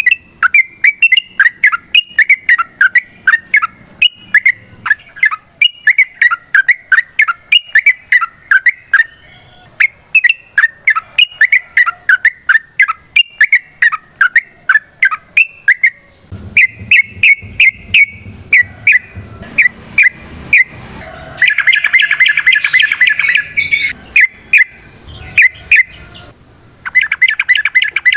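Yellow-vented bulbul (trucukan) singing: long runs of quick, sharp chattering notes, breaking into a dense rapid trill about three quarters of the way in and again near the end. A low hum joins about halfway through.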